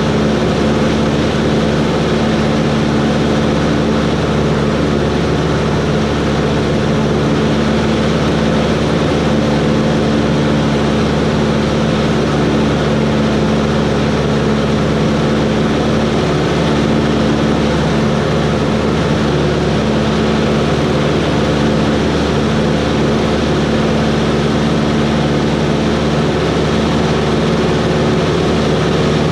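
Cessna 140's single piston engine and propeller running steadily, a constant drone with no change in pitch.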